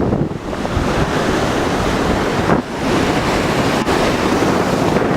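Ocean surf crashing and washing in a loud, continuous rush, with wind buffeting the microphone. There is a brief dip about two and a half seconds in.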